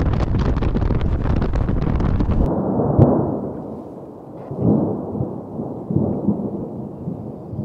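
Wind buffeting the microphone, then, after an abrupt change in the sound about two and a half seconds in, a sharp clap of thunder followed by low rolling rumbles that swell twice.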